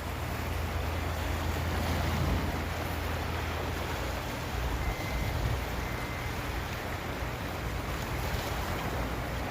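Wind rushing over the microphone of a moving motorcycle, with the engine's steady low hum underneath.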